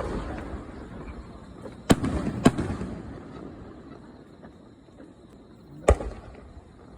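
Aerial firework shells bursting: three sharp bangs, about two seconds in, half a second later, and near six seconds, each trailing off in a rumbling echo.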